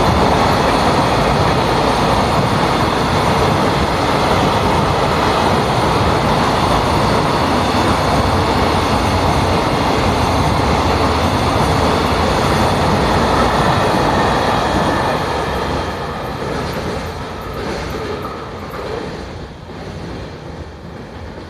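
Container freight train rolling past: a steady loud rumble of wagon wheels on the rails that fades away over the last several seconds as the end of the train goes by.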